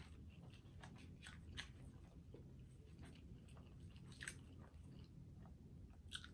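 Faint, close-miked chewing and wet mouth sounds of a person eating fast food, with scattered small clicks and two sharper smacks about four and six seconds in.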